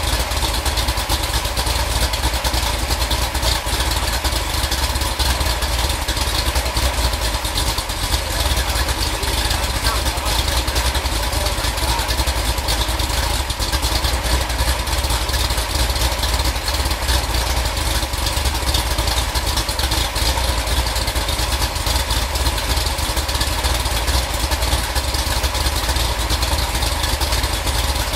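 Freshly rebuilt Ford 428 FE big-block V8 running steadily.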